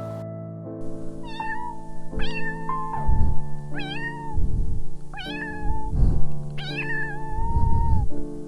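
Domestic cat meowing repeatedly, about five meows from about a second in, the last one drawn out longer.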